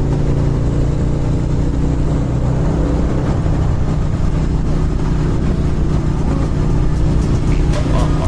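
Harley-Davidson motorcycle's V-twin engine running steadily at an even pitch, with a few sharp clicks near the end.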